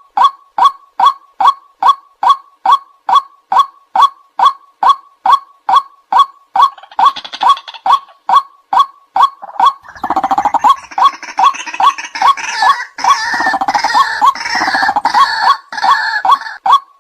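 White-breasted waterhen calling, a monotonous repeated call about two to three times a second. About ten seconds in, a denser, harsher chorus of overlapping calls joins it for several seconds, then stops just before the end.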